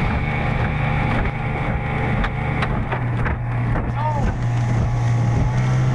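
Speedboat engine running steadily under way, a constant loud drone.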